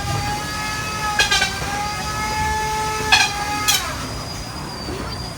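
Antweight combat robot's spinning weapon whining at a steady high pitch, kind of loud, hit by three sharp knocks: one about a second in and two around three and a half seconds. The whine drops in pitch and fades a little before four seconds.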